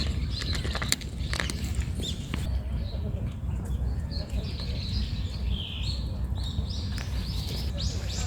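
Strong wind buffeting the microphone with a steady low rumble. Over it a small bird chirps in quick short notes from about three seconds in, and a few sharp clicks come near the start.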